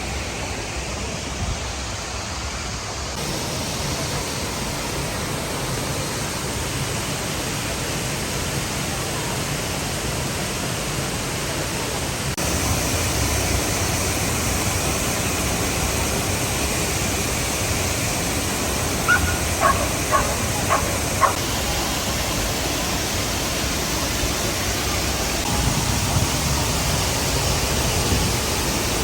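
Steady rush of a waterfall. About two-thirds of the way through, a dog barks five times in quick succession.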